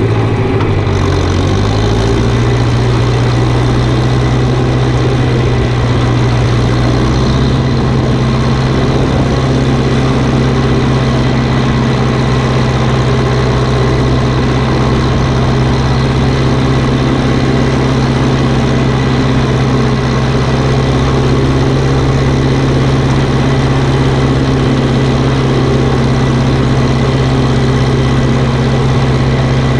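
Tractor engine running steadily while spreading chicken litter, with a strong low drone. The engine speed picks up and settles a second or two in, then holds steady.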